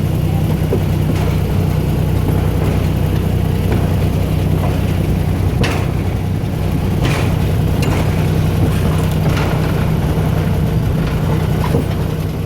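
Small tourist train under way: its engine runs with a steady low drone, and a few sharp clicks and clanks come from the moving train.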